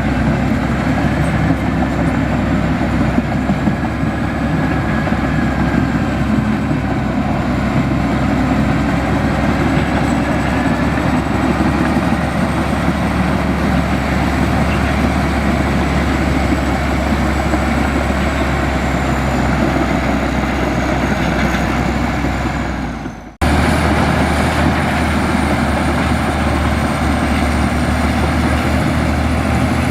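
Diesel engine of a Komatsu bulldozer running steadily under work, with a faint high whine over it. About two-thirds of the way through the sound breaks off for an instant and picks up again.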